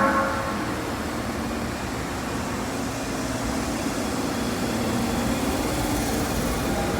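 Osaka Metro train running at a station platform: a steady rumble that slowly grows louder, just after a horn blast fades out at the start.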